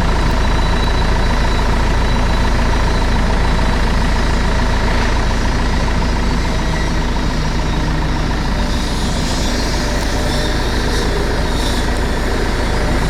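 Heavy fire engine diesel running steadily at idle, a constant low rumble with a steady higher tone above it.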